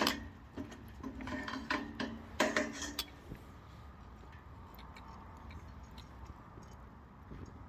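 Pieces of mini pine firewood knocking and clattering against the inside of a small steel camping wood stove as they are added, with a brief metallic ring, during the first three seconds. After that the newly lit pine fire crackles softly with scattered small pops.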